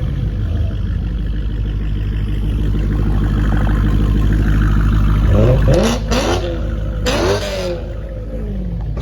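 Car engine running with a steady drone, revved up and back down twice about six and seven seconds in.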